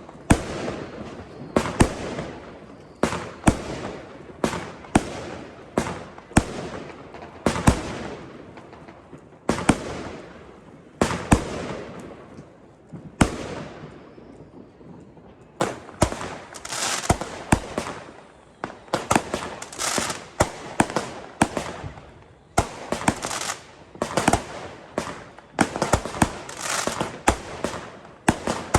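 Fireworks going off: a string of sharp bangs at irregular intervals, each trailed by crackling, coming faster and denser in the second half.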